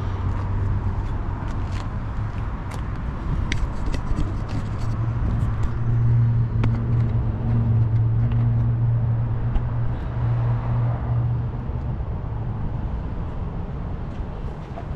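A 1994 Honda Accord's 2.2-litre VTEC four-cylinder engine idles just after a cold start, running steadily at fast idle. The idle climbs a little about five seconds in and settles back down near the end.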